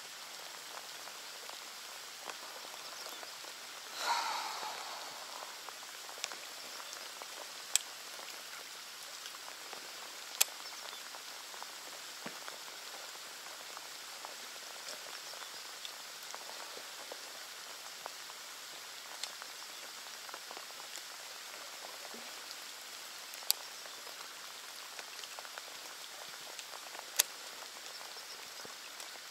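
Steady rain falling on a lake surface, an even hiss, with a few sharp single ticks scattered through it and one short louder sound about four seconds in.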